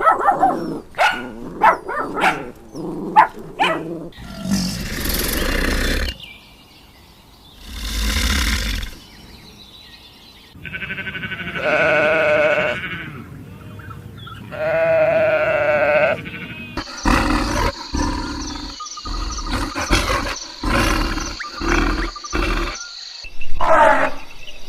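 A string of different animal calls one after another: quick sharp calls at first, then rough noisy calls, two drawn-out pitched calls in the middle, and a run of short sharp sounds over a steady high tone near the end.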